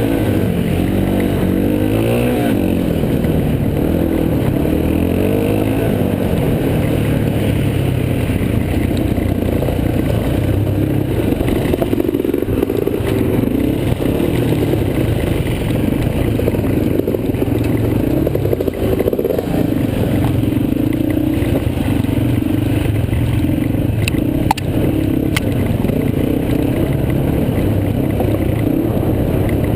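Yamaha TT-R230 dirt bike's single-cylinder four-stroke engine running under a riding load, its revs rising and falling with the throttle, with rattling from the bike over the trail. A couple of sharp knocks come near the end.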